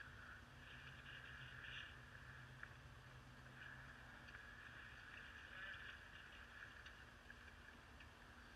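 Near silence: a faint steady background noise with a low hum and a few faint clicks.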